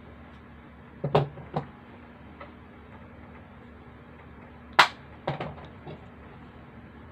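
Several short, sharp knocks or taps: a quick cluster about a second in, the loudest just before five seconds, then two or three lighter ones, over a steady low hum.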